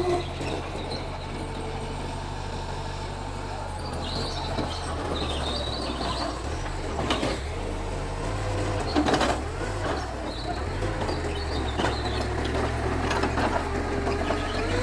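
Mitsubishi bulldozer's diesel engine running steadily at a low drone, with a few sharp knocks from the machine.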